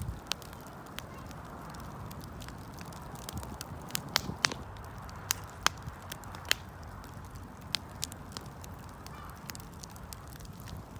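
Wood fire burning, a steady low rush of flame with irregular sharp crackles and pops from the burning wood, a few louder snaps about four and six seconds in.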